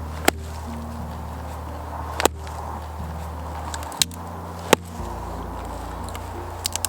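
Sharp single knocks or cracks every second or two, with a quick cluster of three or four near the end, over a low steady drone with soft sustained notes that change pitch now and then.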